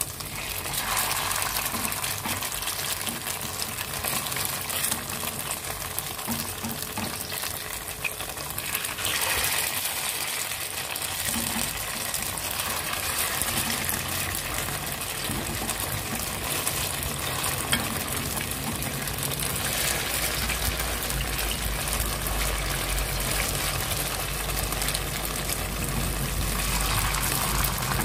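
Tofu and dried-shrimp fritters sizzling in hot oil in a frying pan as they are turned over, a steady sizzle.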